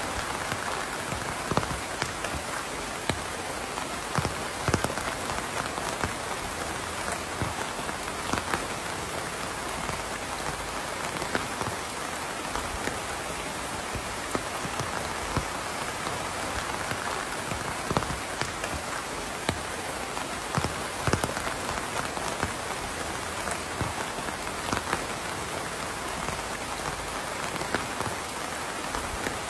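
Steady rain falling: an even hiss, with single louder drops tapping close by at irregular moments, several a second at times.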